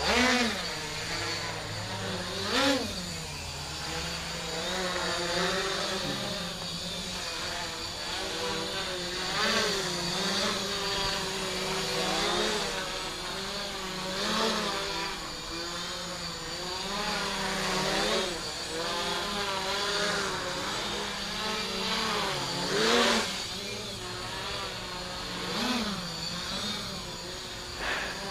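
RC tricopter's motors and propellers running in flight, their whine rising and falling continually as the throttle is worked, with a few short sharp surges in pitch.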